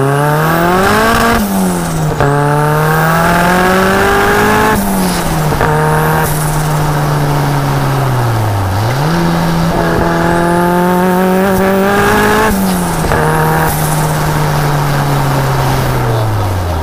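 Turbocharged Nissan CA18DET four-cylinder in a lightweight Locost kit car under hard acceleration. The revs climb and snap down at quick upshifts about one and a half and five seconds in, fall away as the driver lifts off, then climb again through another shift before easing off near the end.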